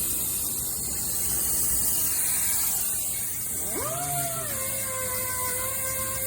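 A steady hiss, then about four seconds in a power sander spins up with a quick rising whine and settles into a steady running pitch.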